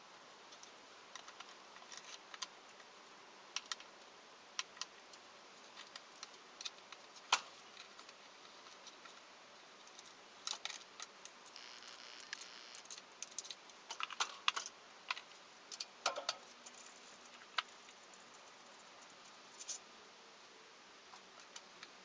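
Hand tools and small metal parts clinking and clicking irregularly during engine work, with a short hiss about halfway through.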